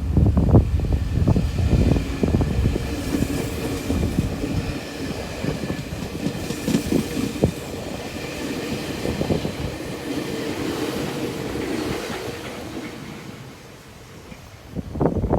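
Meitetsu express train, a 9500 series set coupled to a 3100 series set, running past with its wheels clacking rhythmically over the rail joints under a steady mechanical hum. The sound fades away near the end as the train recedes.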